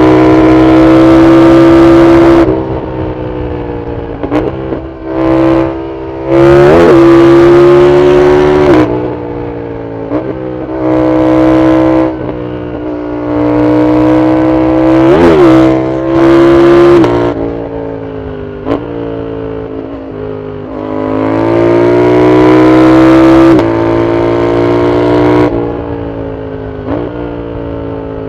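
Yamaha MT-07's CP2 parallel-twin engine through an Arrow full exhaust, ridden hard: loud full-throttle pulls with the revs rising and falling again and again.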